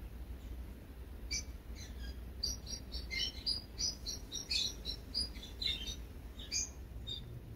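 Small birds chirping: a quick, irregular run of short high chirps at varying pitches, busiest in the middle, over a steady low rumble.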